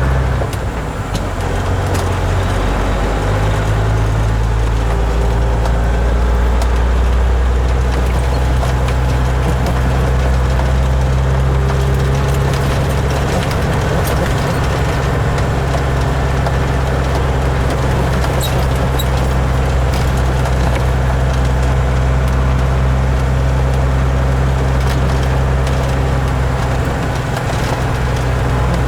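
Kenworth truck's diesel engine heard from inside the cab, running steadily. Its pitch steps a couple of times in the first few seconds, then holds, with faint light rattles over it.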